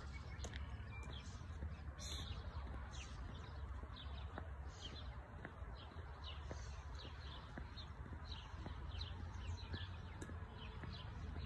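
Small birds chirping, a string of short falling notes about two a second, over wind rumbling on the microphone.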